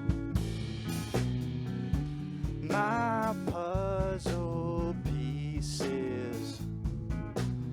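A five-piece rock band plays live: drums, bass guitar, electric guitar, piano and saxophone, with regular drum hits under steady bass and chords. A wavering lead melody comes in about three seconds in.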